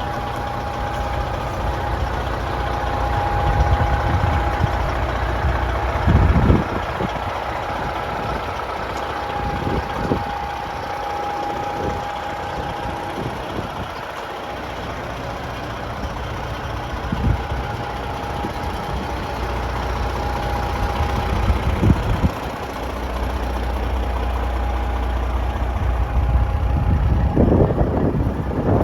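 Detroit Series 60 12.7L diesel engine in a Freightliner truck idling with a steady low rumble. A thin, high steady tone sounds on and off over it, and there are a few scattered thumps.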